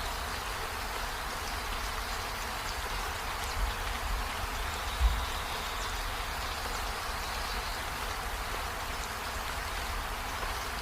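Steady rain falling on trees and a window, an even hiss, with a low thump about five seconds in.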